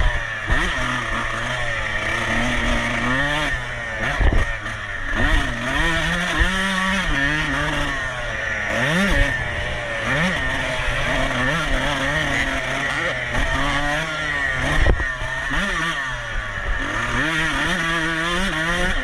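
Off-road racing motorcycle engine revving up and falling back again and again as it is ridden hard through the gears, with scattered knocks.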